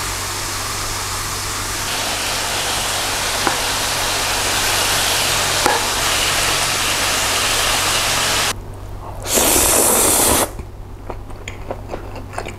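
Pork belly rolls sizzling in a frying pan, a steady hiss. Near the end a short, louder burst of sizzling, then softer scattered clicks.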